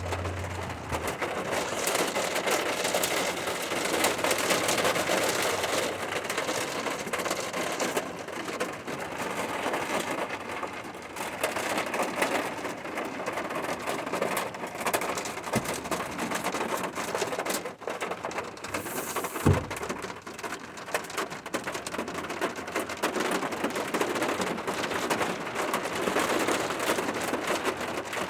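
Steady rain falling: a dense, even patter of drops on surfaces. One sharp click stands out about two-thirds of the way through.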